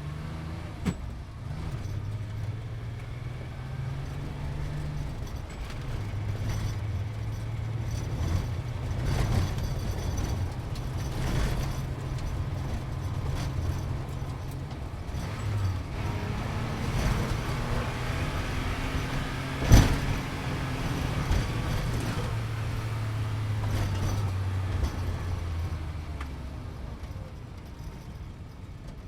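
Sports car engine running, its pitch climbing in steps and falling back several times. There is a sharp knock about twenty seconds in.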